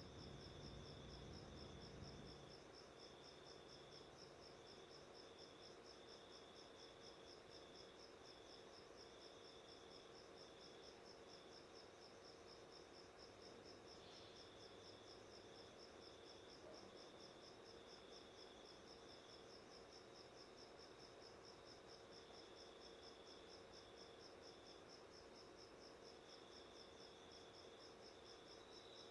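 Faint cricket chirping: a steady, evenly repeating high pulse, with a second, lower-pitched trill that starts and stops. A faint low hum stops about two seconds in.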